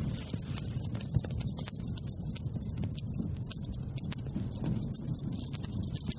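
Wood campfire crackling: many small, irregular sharp pops and snaps over a steady low rumble.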